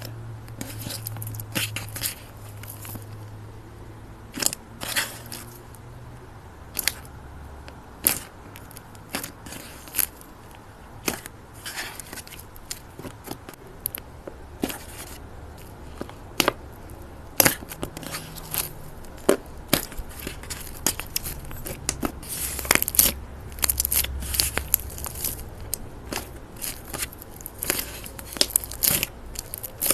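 Close-up crisp crackling and crunching, like something brittle being crushed, cut or torn. It comes as a run of sharp snaps at irregular intervals, thickest in the second half, over a low steady hum.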